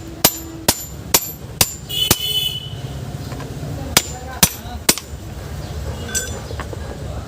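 Hammer blows driving a ceiling fan's steel shaft into its stator core, struck through a piece held against it so the shaft does not bend. Five sharp strikes about half a second apart, a pause, then three more.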